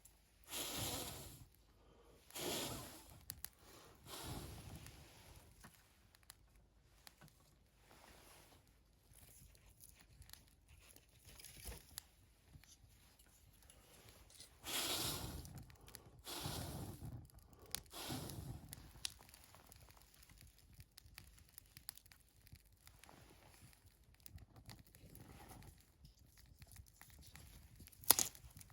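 Dry material being torn and crumpled in several short rustling bouts, with a single sharp crack near the end.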